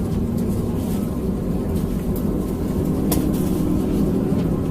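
Steady low hum and rumble of an Airbus A320's cabin before takeoff, with a few faint clicks.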